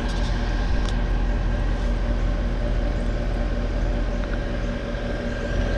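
2014 5-ton York Affinity heat pump outdoor unit running in cooling mode: the condenser fan and compressor make a steady hum with a few steady tones over it.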